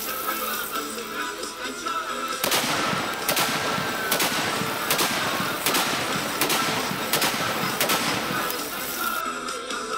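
Saiga 12 semi-automatic 12-gauge shotgun firing a rapid string of shots, a little more than one a second, stopping near the end, over background music.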